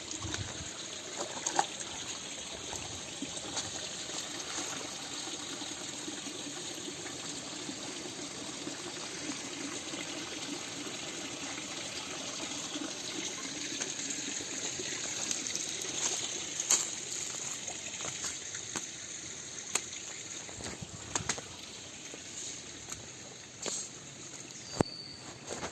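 Mountain river water flowing over rocks in a steady rush, with a few sharp knocks and clicks in the second half.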